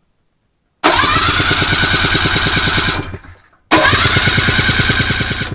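Rotax 503 two-stroke twin spun over on its electric starter for a compression test on the mag-side cylinder, in two bursts of about two seconds each. Each burst is a starter whine that rises at first, with rapid even pulses from the cranking engine; it does not fire.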